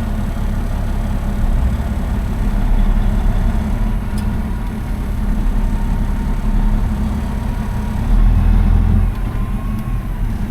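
Semi truck's diesel engine running at low speed with a deep, steady rumble that swells briefly near the end.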